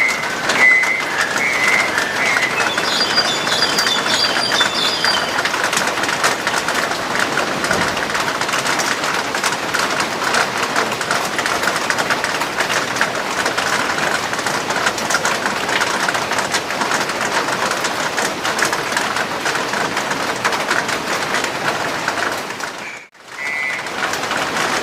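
A black-collared starling gives a few short calls at the start and a quick run of higher notes a few seconds in, over a loud, steady crackling background noise. The noise drops out briefly near the end.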